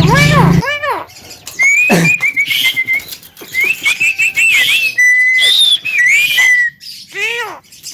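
Javan myna (jalak kebo) whistling and calling: a string of arched squawking calls, quick rising and falling whistle notes and chattering trills, with one held steady whistle about five seconds in.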